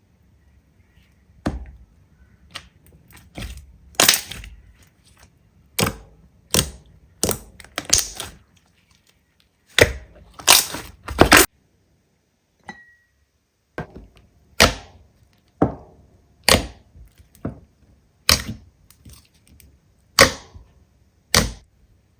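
Slime being pressed and worked by hand, giving a string of sharp pops and crackles at irregular intervals, roughly one a second, with a short pause about halfway through.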